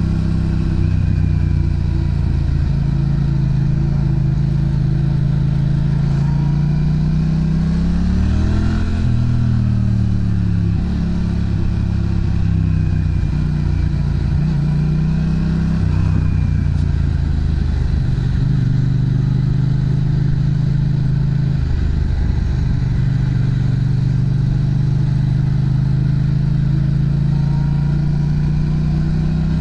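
Yamaha MT-07 parallel-twin engine running through a Pranas aftermarket muffler, its exhaust note steady with the pitch rising and falling a few times, most clearly about nine seconds in.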